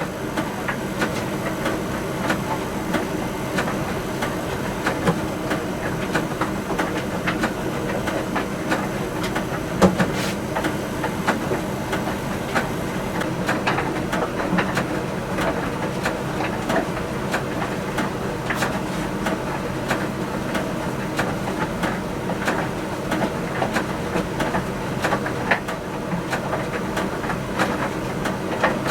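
Miele T1 Ecospeed heat-pump tumble dryer running a drying cycle: a steady machine hum with irregular light clicks and knocks from the load tumbling in the drum, and one louder knock about ten seconds in.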